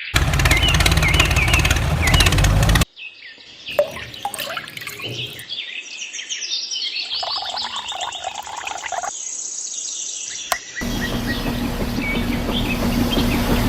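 Birds chirping in quick, varied calls, cut together with louder stretches of steady mechanical noise: a clicking rush at the start and a low steady hum near the end.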